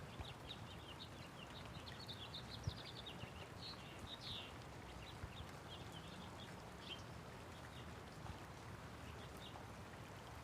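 Small birds chirping in quick, high twittering calls, busiest in the first half and sparser later, over a soft steady hiss of light rain. A few faint low knocks come through now and then.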